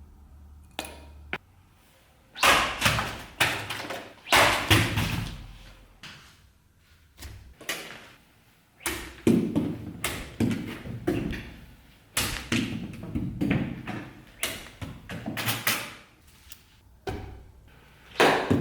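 A series of sharp knocks and thuds, coming in clusters with a pause partway through.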